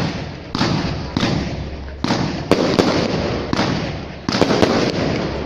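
Fireworks display: a rapid series of aerial shell bursts, sharp bangs a second or less apart, each trailing off in a long rumbling echo.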